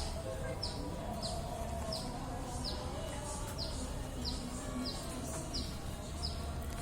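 A bird's short, high chirp that falls in pitch, repeated steadily about one and a half times a second, over a low background rumble.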